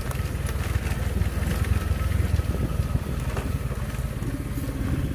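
Motorcycle engine running steadily at low speed while being ridden, with a few short knocks over the bumpy road.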